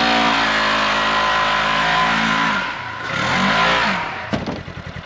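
An engine running at steady revs drops off about two and a half seconds in and is briefly revved up and down again. Then comes a sharp click, and the engine settles into a fast, even idle.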